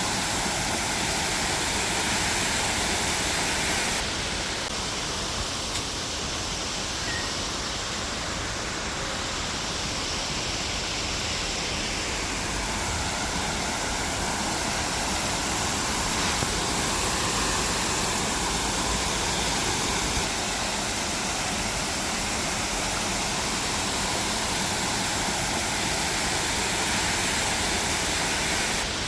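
Waterfall, water falling and splashing in a steady rush, its tone shifting abruptly a couple of times.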